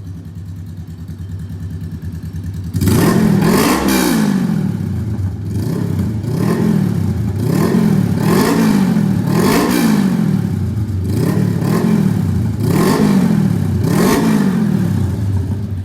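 Honda Rebel 500's parallel-twin engine through an aftermarket exhaust, idling, then from about three seconds in revved again and again: roughly ten quick throttle blips, each rising and falling in pitch.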